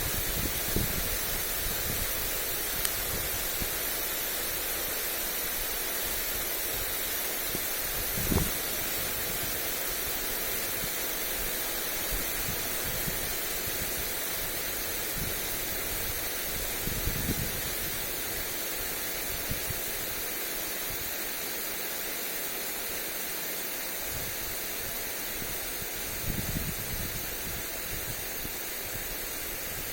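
Lawn sprinkler spraying water onto grass, a steady even hiss, with a few brief low gusts of wind on the microphone.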